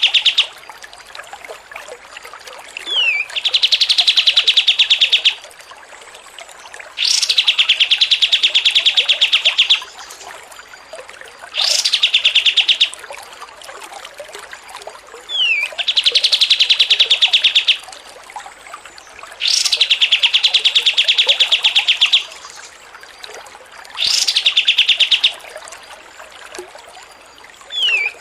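Songbird singing the same phrase over and over, about every four seconds. Each phrase is a quick rising note followed by a rapid, high trill lasting one to three seconds, and a short falling whistle comes before some of the phrases.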